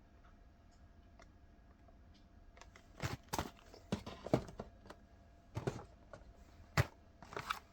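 Cardboard ice cream sandwich boxes being handled: after a few quiet seconds, a run of sharp taps, knocks and rustles, the loudest about four and a half and seven seconds in.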